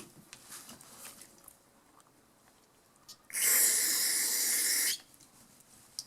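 An aerosol can of carburetor cleaner sprayed in one steady hiss lasting about a second and a half, a little past three seconds in. Before it there are faint light clicks from handling the part.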